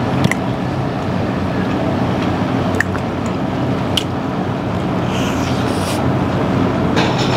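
Steady low rumble of restaurant room noise, with a few small clicks and, after the bite about four seconds in, short crackly bursts of chewing on a piece of bread dipped in olive oil and balsamic vinegar.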